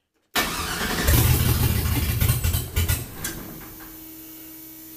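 A car's starter cranks the engine on power from a GOOLOO GP4000 jump starter in boost mode. It starts suddenly about half a second in and is loud for a few seconds, then settles to a quieter, steady running sound with a steady hum.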